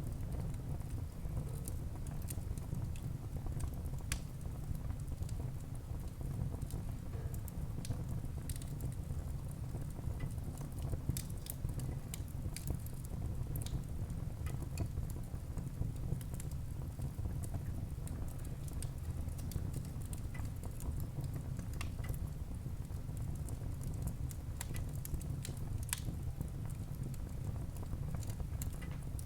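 Wood fire burning in a fireplace: a steady low rumble of flames with many small, sharp crackles and pops from the burning logs, scattered irregularly.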